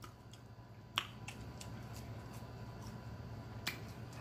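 Close-miked chewing of a sauce-dipped chicken nugget, with sharp smacking mouth clicks, the loudest about a second in and again near the end.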